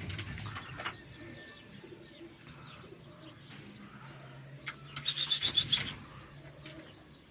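Domestic pigeons cooing, with a burst of rapid high chirping about five seconds in.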